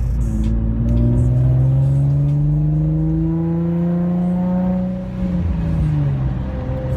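Infiniti G35's 3.5-litre V6 through a Motordyne aftermarket exhaust, its note climbing steadily in pitch for about five seconds, then dropping back and settling to a steady tone.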